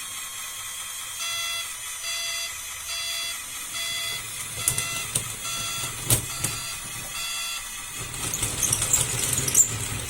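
Reverse-alarm beeper of an RC scale Caterpillar bulldozer, beeping steadily about one and a half times a second, with a few sharp clicks among the beeps. Near the end the model's gears and tracks clatter.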